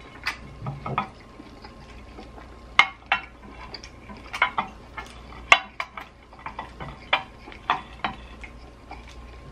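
Close-up chewing of a bite of grilled tomahawk steak: wet smacking and clicking mouth sounds at an irregular pace, sometimes two or three in quick succession.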